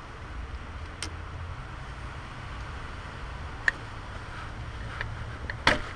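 A few sharp clicks and knocks, as of tools and car parts being handled, over a steady low hum. The loudest knock comes just before the end.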